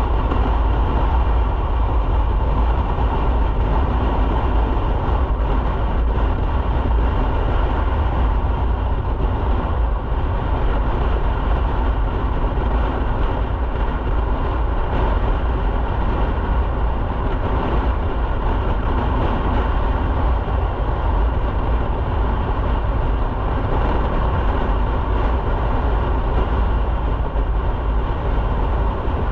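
Motorcycle riding at a steady speed: the engine running evenly under a heavy, continuous wind rumble on the rider's microphone.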